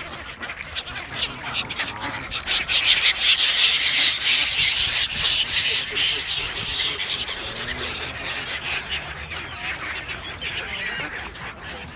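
A flock of ducks and geese calling while they are fed bread. The calls are loudest from about two and a half to seven seconds in.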